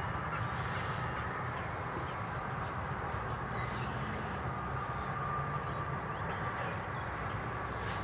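Birds calling over a steady outdoor background.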